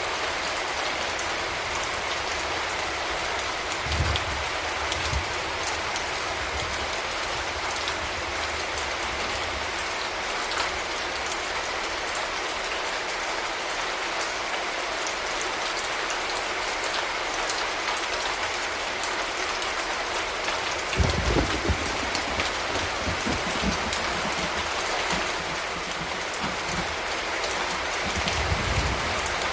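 Steady rain falling in an urban setting, an even dense hiss throughout, with a few brief low rumbles: one about four seconds in, a stronger one about two-thirds of the way through, and another near the end.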